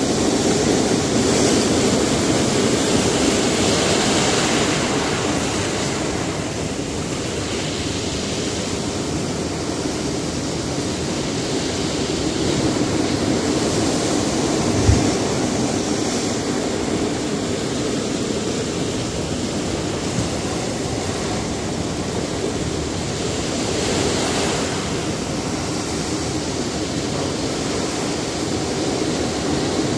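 Sea surf breaking on a rocky shore: a continuous wash of water that swells with louder waves every few seconds. There is a brief low thump about halfway through.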